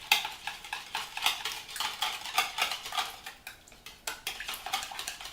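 A utensil beating coconut milk and an egg together in a mixing bowl, with quick repeated clicks of the utensil against the bowl that ease off briefly a little past halfway.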